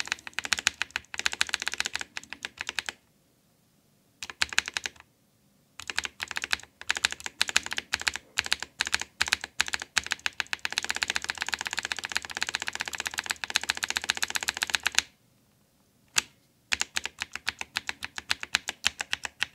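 Mechanical keyboard keys with clicky blue switches pressed rapidly over and over, a dense run of sharp clicks broken by a few brief pauses. The keys are being worked to spread freshly applied hand-cream lubricant in the switches.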